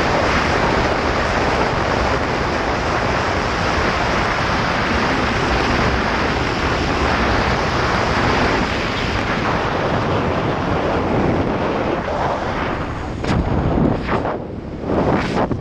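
Wind rushing over the microphone of a camera on a moving motorcycle, a steady loud noise that turns gusty and uneven in the last few seconds.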